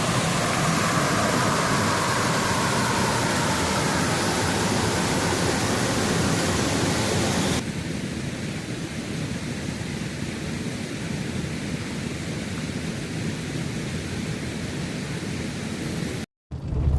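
Steady rushing noise of a waterfall and stream water. It drops abruptly to a softer rush about halfway through, then cuts out briefly just before the end.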